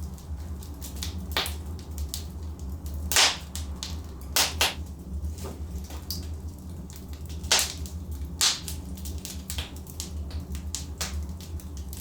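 Wood fire burning in a fireplace: irregular sharp crackles and pops from the logs over a steady low rumble, with the loudest pops about three seconds in and again near the middle.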